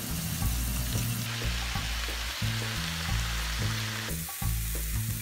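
Potato slices sizzling as they fry in oil in a pan. About four seconds in the sizzle drops to a quieter one from sliced onions cooking. Background music with a steady bass line runs underneath.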